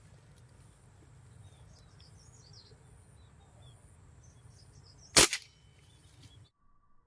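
A single sharp shot from a PCP air rifle about five seconds in, with small birds chirping faintly before it.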